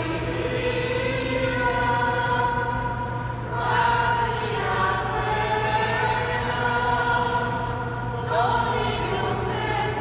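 Mixed choir singing sacred music in long, sustained phrases, with a fresh phrase starting about a third of the way in and again near the end, over a steady low hum. The sound is carried by the reverberation of a large cathedral.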